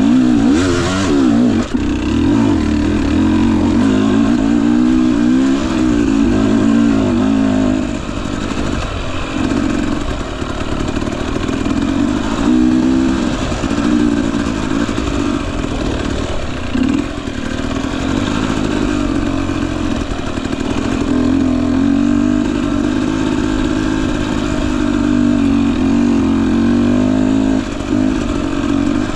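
Husqvarna TE250i two-stroke dirt bike engine running at low to middling revs, its pitch rising and falling as the throttle is worked on and off. There is a short clatter near the start.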